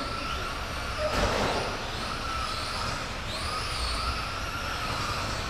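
Radio-controlled racing trucks lapping a track, several motors whining and rising and falling in pitch as they speed up and slow for corners, with a brief louder rush about a second in as trucks pass close.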